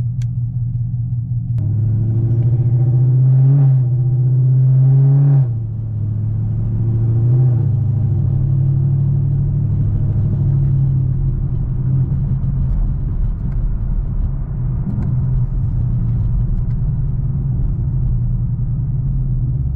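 Straight-piped Chevrolet Camaro V8 exhaust heard from inside the car while driving at low speed. About two seconds in it gets louder under throttle for roughly four seconds, then drops back suddenly to a steady low rumble, with one brief swell a couple of seconds later.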